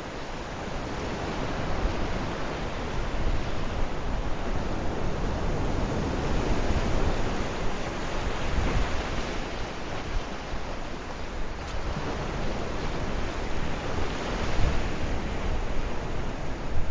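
Sea waves breaking and washing on the shore: a continuous rush of surf that swells and eases, getting louder a couple of seconds in.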